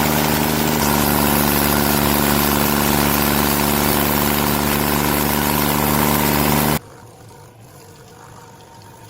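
Stump grinder's engine running steadily at high speed, with a hiss of grinding over it. It cuts off abruptly about seven seconds in, leaving only a faint background.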